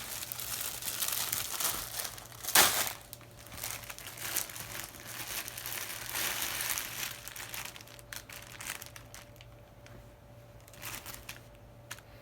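Crinkling and rustling of plastic packaging as the tuxedo is handled, with one sharp louder crackle about two and a half seconds in. The rustling thins out over the last few seconds.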